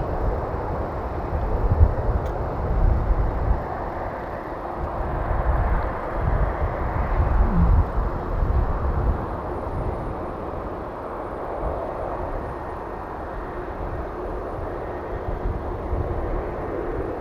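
Boeing 747-400 jet engines running at taxi power: a steady jet rush with uneven low rumbling surges and a faint high whine that comes in about halfway through.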